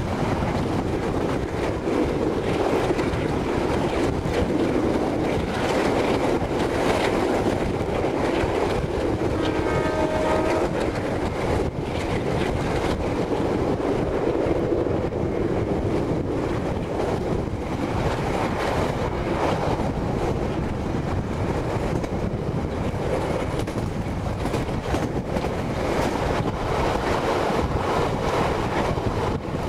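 Passenger train running at speed, heard from a carriage window: a steady rumble and rush with clacks of the wheels over rail joints. About ten seconds in, the horn sounds one short note lasting about a second.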